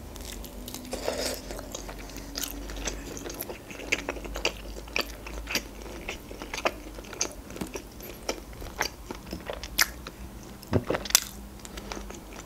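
Close-miked chewing of rotisserie chicken: wet mouth clicks and smacks at an irregular pace, with a couple of louder smacks near the end.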